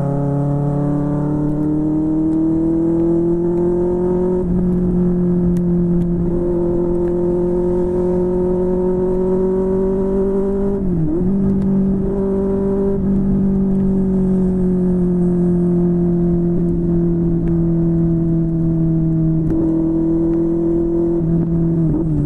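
QJMotor SRK600's inline-four engine through a Yoshimura R11 exhaust, running at steady mid revs under way, the pitch climbing slowly over the first few seconds. The revs dip briefly and sharply about halfway through and again near the end, over a low rumble of wind.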